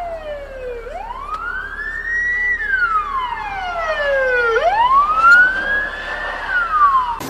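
Emergency vehicle siren in a slow wail: a single tone rising and falling about every three and a half seconds, with a fainter echo. It cuts off suddenly near the end.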